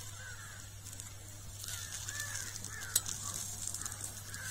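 Birds calling faintly at intervals, a handful of short arched calls, over a steady low hum. There is a single sharp click about three seconds in.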